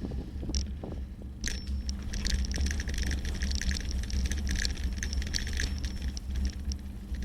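Wind rumbling on the microphone of a moving bicycle, with light, irregular high ticking and rattling from the bike.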